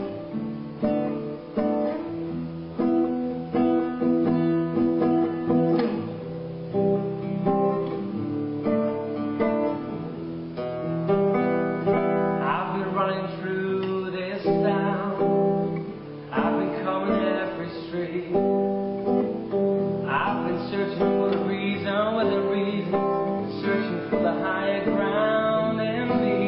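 Acoustic guitar playing the instrumental introduction of a song, plucked and strummed with ringing sustained notes.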